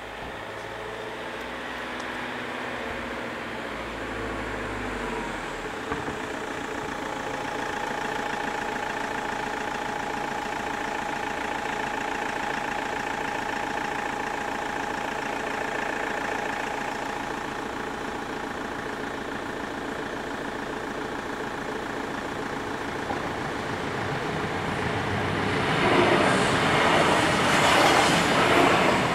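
Trenitalia regional train approaching a level crossing, its engine drone growing louder and holding steady. Over the last few seconds it passes close by with a loud rush of wheel and rail noise.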